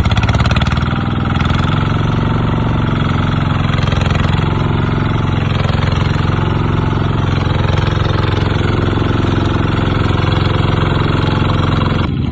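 Kubota RT140 walking tractor's single-cylinder diesel engine running steadily, its firing strokes a rapid, even knock.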